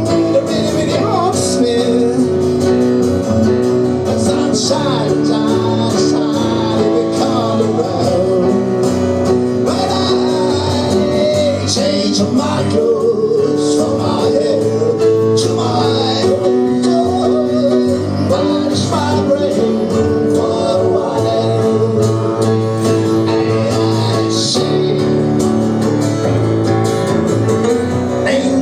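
Live band music: a song played on guitar with a singer, loud and steady throughout.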